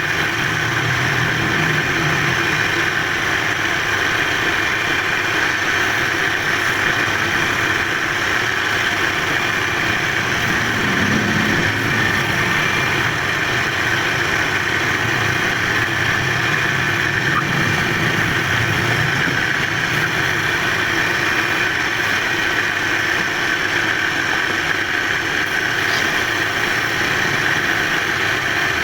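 Wood lathe running steadily as it turns a charpai bed leg. The machine noise is an even, unbroken drone.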